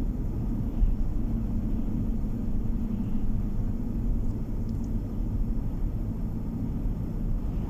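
Steady low rumble of a car on the road, engine and tyre noise heard from inside the cabin.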